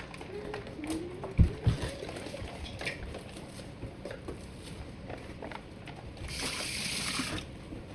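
Kitchen prep sounds: two dull knocks about a second and a half in, and a little before the end about a second of steady hiss.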